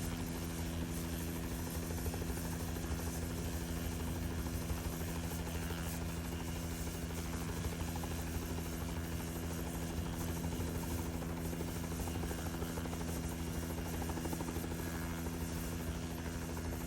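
Helicopter running with a steady, even hum that holds at one pitch and level throughout.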